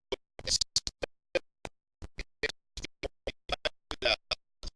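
Choppy, broken-up audio: short fragments of sound, several a second, cut apart by gaps of dead silence, the sign of a recording whose sound keeps dropping out.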